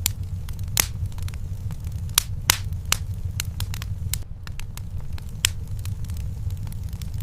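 Wood fire burning in a fireplace: irregular sharp crackles and pops, a few of them louder, over a steady low rumble of the flames.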